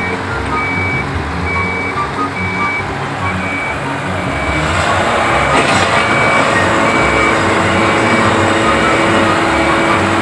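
Heavy diesel engine, the C9 of a rig paired with a 750 compressor, running under a repeating electronic beep of about two beeps a second. The engine gets louder about four and a half seconds in, with a short hiss soon after.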